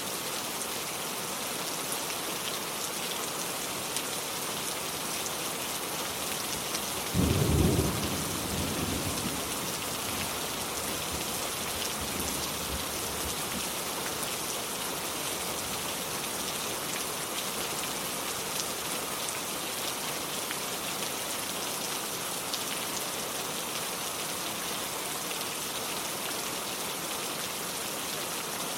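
Steady rain falling on hard surfaces, with one peal of thunder about seven seconds in that dies away over the next few seconds.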